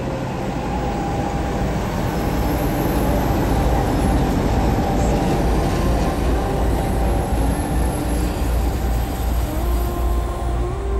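Train running along the track: a loud, steady rolling rumble of wheels on rails, heaviest in the low end.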